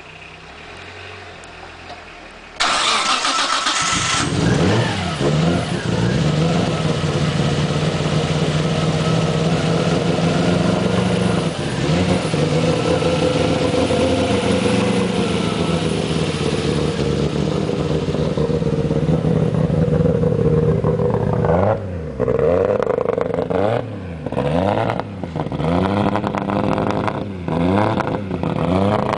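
A Nissan Skyline's turbocharged RB25DET straight-six catches about two and a half seconds in, at its first start after a rebuild. It runs at a steady fast idle, then from about three quarters of the way in it is blipped several times, the revs rising and falling.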